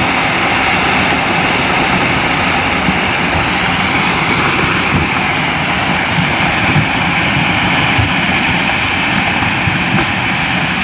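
Landslide: a loud, steady rumbling roar of sliding earth and debris.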